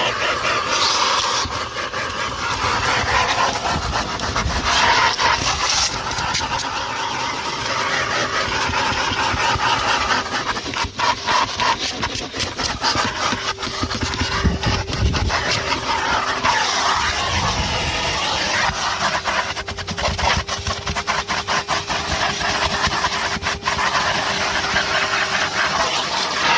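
Numatic Henry HVR200-22 vacuum cleaner running steadily, its motor giving a constant hum under the rush of suction, with frequent clicks and rattles as the nozzle works.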